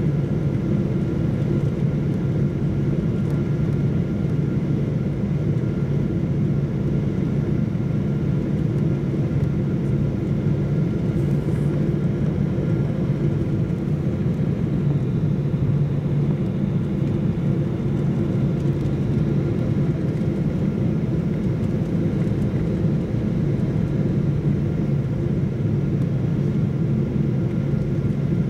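Jet airliner cabin noise: a steady, even drone of engines and airflow heard from inside the passenger cabin, with a few faint steady tones above it.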